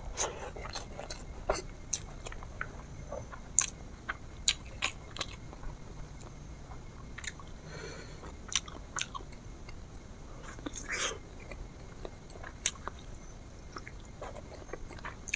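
Close-miked eating: a person chewing and biting food, with irregular sharp mouth clicks a few times a second.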